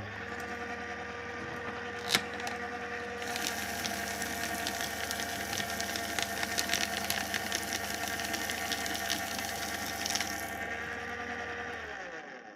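Electric paper shredder: the motor starts with a steady hum and a sharp click about two seconds in. From about three to ten seconds, dense crackling as paper is cut. The motor then runs on empty and winds down near the end.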